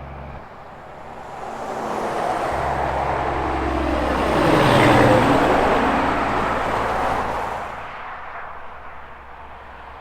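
A heavy truck passing on the highway: engine and tyre noise build to a peak about five seconds in, drop in pitch as it goes by, and fade away by about eight seconds.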